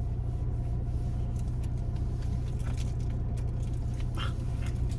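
Car engine idling: a steady low hum, with a few faint small clicks.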